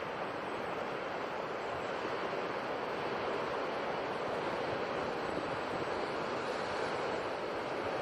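Sea waves and surf, a steady rushing wash of water that swells slightly in the middle.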